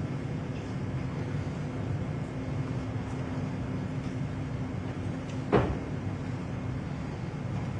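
Steady low rumble with a faint constant hum, and a single sharp knock about five and a half seconds in.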